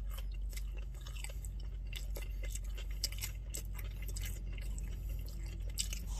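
A person chewing a mouthful of crispy fried chicken sandwich close to the microphone, with many small wet mouth clicks and smacks over a steady low hum.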